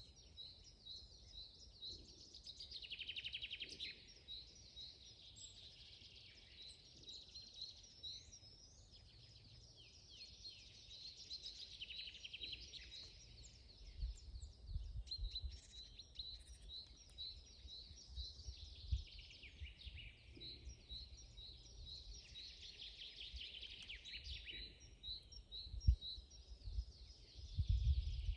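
Several forest songbirds singing together, with one bird repeating a short high note several times a second through most of the clip while others add trills and warbles. Underneath is a low rumble with a few thumps, stronger near the end.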